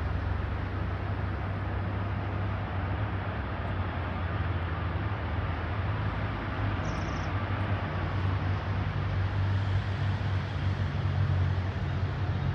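Jet airliner engines running with a steady, even noise and a strong low rumble that builds slightly in the second half.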